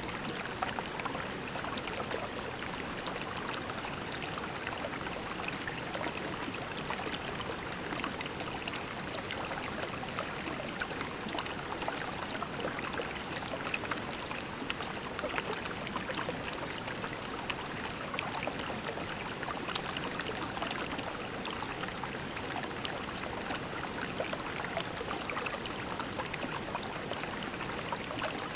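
Shallow creek babbling over pebbles: a steady rush of water with many small splashes and trickles.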